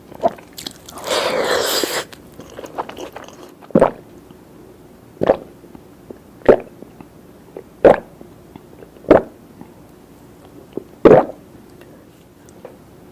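Close-miked eating sounds: a second-long noisy burst early on, then six loud, short mouth sounds, one every second or two, with faint smacks in between.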